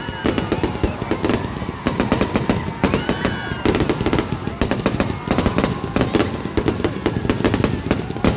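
A fireworks display going off in a rapid, continuous barrage of bangs and crackles, with no pause.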